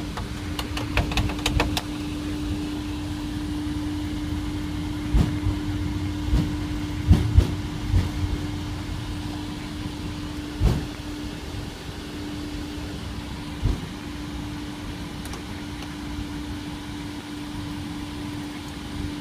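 Airliner flight-deck noise as the aircraft rolls after landing: a steady hum with a constant low tone. A quick run of clicks comes about a second in, and single thumps follow at scattered moments.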